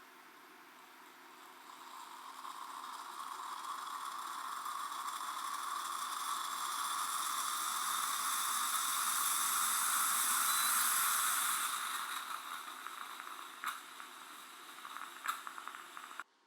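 Bialetti Musa stovetop moka pot hissing as the brew is forced up, swelling over several seconds and then fading. A couple of sharp clicks come near the end before the sound cuts off suddenly.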